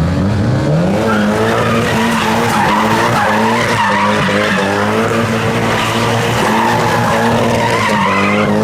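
Car engine revved hard while its tyres squeal and spin, a burnout or donut: the revs climb in the first second, then are held high and steady.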